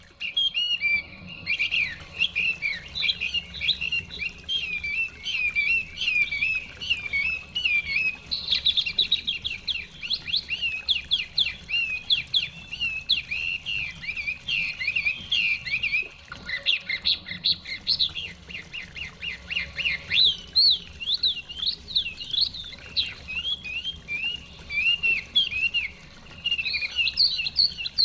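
Chinese hwamei singing a loud, continuous, varied song of rapid whistled phrases and repeated notes, over a faint low rush of running water.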